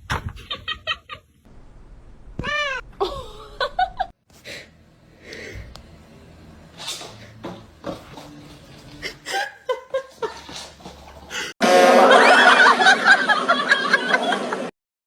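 Cat meowing in a string of short calls, some rising and falling in pitch, with people laughing. Near the end comes a louder, dense stretch of sound of about three seconds that cuts off suddenly.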